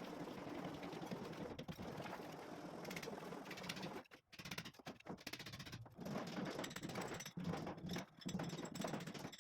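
Power drill working into a brick wall, running steadily, then from about four seconds in stopping and restarting in short runs.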